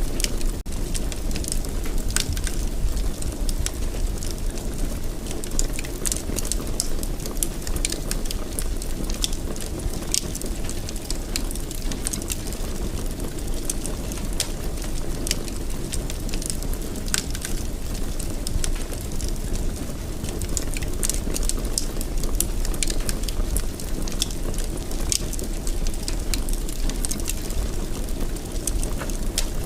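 Wood fire burning in a fireplace: a steady low rumble of the flames with frequent small pops and crackles.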